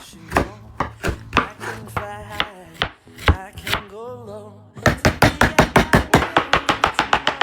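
Knife chopping on a cutting board: a few separate chops at first, then a fast, even run of about six chops a second from a little past the middle.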